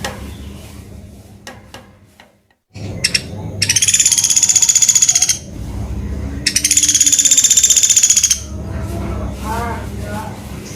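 A small bird sold as 'pelatuk beras' giving two rapid, rattling high trills, each about two seconds long and a second apart, over a low hum.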